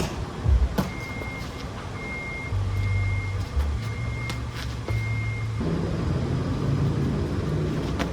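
Vehicle reversing alarm beeping five times at an even pace, each beep a single high tone, over the low rumble of an engine that grows louder about two-thirds of the way through.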